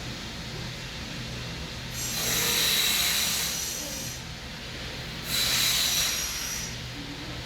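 Two long, slow, hissing breaths through the nose, the first about two seconds in and lasting about two seconds, the second shorter, as in pranayama breathing practice such as anulom vilom, over a low steady hum.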